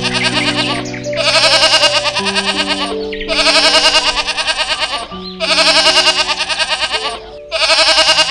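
A goat bleating in long, quavering calls, repeated about every two seconds, over background music with held low notes.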